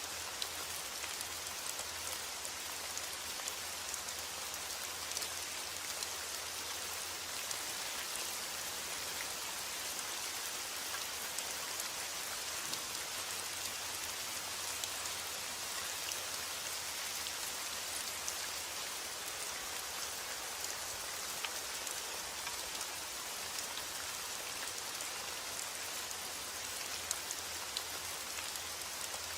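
Steady rain falling on a surface, a dense even hiss with many small individual drop ticks.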